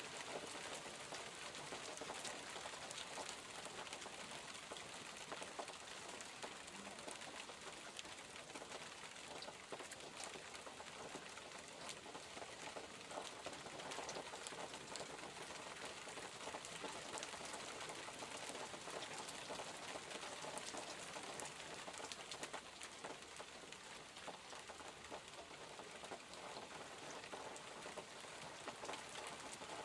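Steady rain falling, with many fine patters of raindrops on surfaces.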